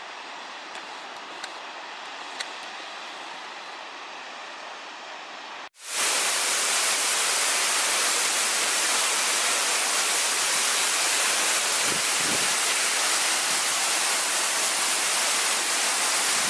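Waterfall rushing steadily, with a few faint ticks in the first part; about six seconds in, a sudden cut brings the rush much closer and louder, a dense hiss.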